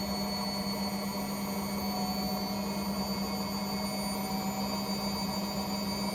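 Household appliance running steadily through a cleaning cycle: a constant low hum with a faint high whine that creeps slightly upward, over an even background noise.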